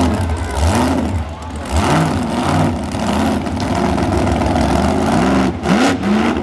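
Monster truck engine revving hard, its pitch rising and falling over and over, about twice a second, as the throttle is blipped during freestyle.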